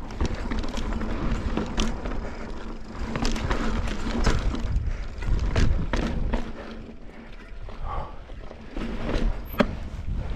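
Mountain bike rolling over slickrock: a steady low tyre rumble with frequent sharp clicks and rattles from the bike.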